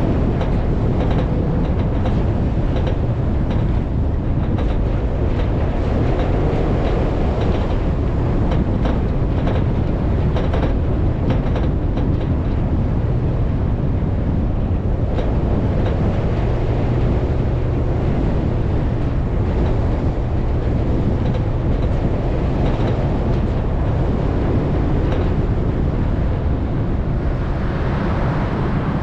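Off-road vehicle driving over desert sand, heard from on board: a steady low engine rumble with frequent rattles and knocks.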